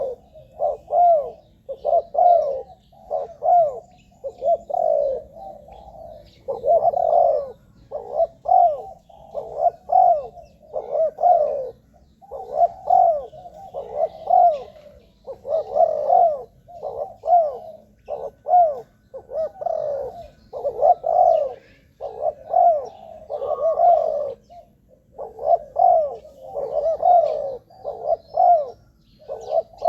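Spotted dove cooing over and over, one phrase of low notes after another with short pauses between them.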